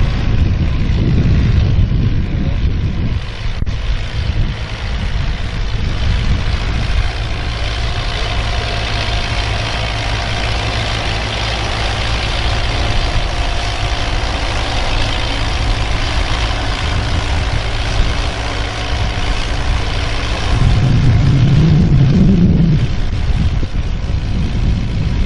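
Tractor engine running steadily, with a louder, deeper surge in engine note about 21 seconds in.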